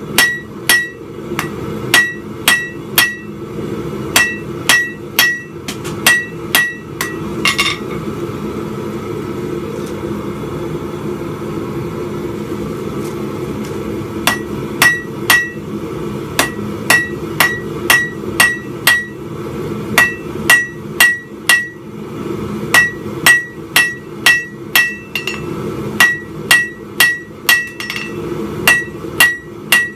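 Hammer blows ringing on an anvil as a spike is forged, about two strikes a second in runs, with a pause of several seconds about a quarter of the way in. A steady low hum runs underneath.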